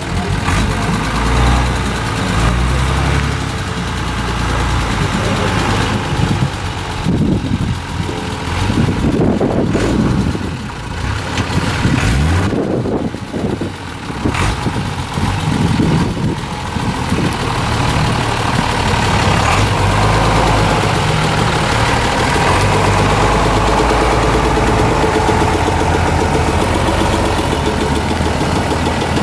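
Mercedes-Benz Unimog truck engine running, revving up and down several times through the middle, then holding a steady pitch.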